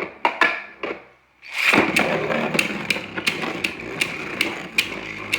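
Hard plastic Beyblade parts and launcher being handled: a series of sharp plastic clicks, a brief pause about a second in, then a steady run of clicks about three a second.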